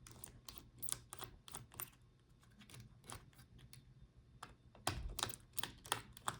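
Light, irregular clicks and taps of a small screwdriver working a screw in a laptop's motherboard, a few per second, with a denser cluster about five seconds in, over a faint steady hum.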